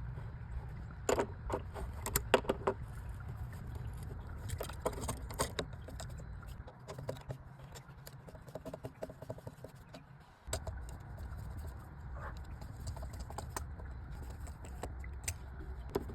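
Scattered clicks, taps and light knocks of hand tools and metal parts being handled during water heater repair work, over a steady low hum that drops out for a few seconds in the middle.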